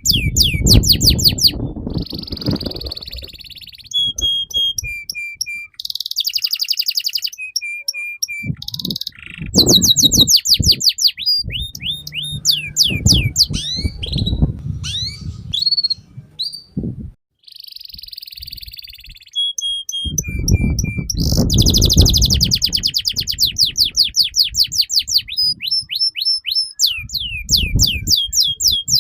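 Domestic canary singing a long, continuous song: fast trills of repeated sweeping notes, buzzy rolls and short clear whistled notes in quick succession, with a brief pause about two-thirds of the way through.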